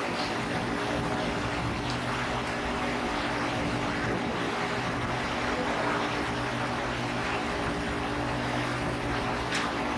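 Daikin Rebel Applied rooftop HVAC unit running: a steady rushing drone with a low, even hum under it.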